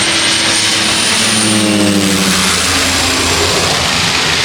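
Jet aircraft engines running at the airport: a loud, steady rush of engine noise with a thin high whine. Partway through, a lower droning tone falls in pitch and fades.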